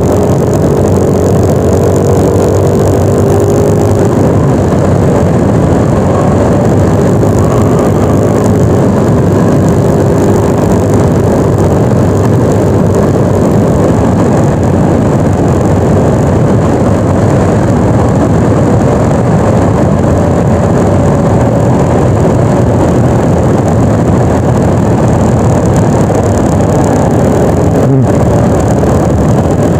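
Yamaha NMAX 155 scooter's single-cylinder engine running at a steady cruise, a faint even drone under a loud, dense rush of wind and road noise.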